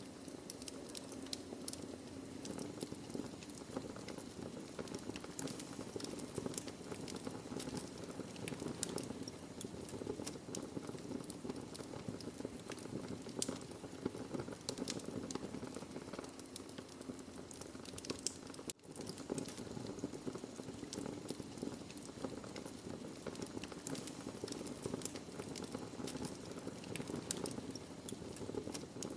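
Wood fire burning in a fireplace: a steady low hiss and rumble with many irregular sharp crackles and pops of the burning logs. The sound drops out for a split second about two-thirds of the way through.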